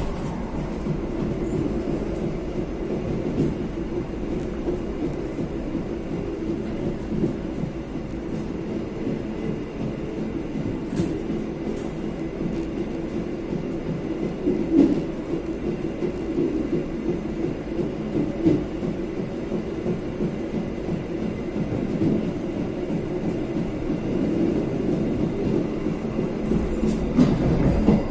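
Passenger train running at speed on welded double track, heard from the rear of the last coach: a steady rumble of wheels on rails. A few sharp clicks as wheels pass rail joints and switches, several close together near the end.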